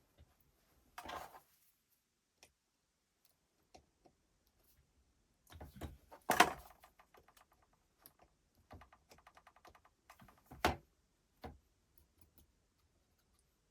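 Small parts and tools being handled during a cordless drill gearbox repair: scattered clicks, knocks and short scrapes, with a quick run of rattling ticks between about nine and ten seconds. The loudest knocks come a little after six seconds and near eleven seconds.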